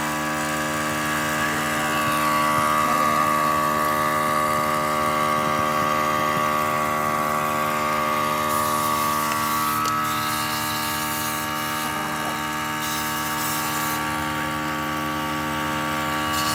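A machine running steadily at a constant speed, a dense drone of many steady tones, with extra hiss added for a few seconds around the middle.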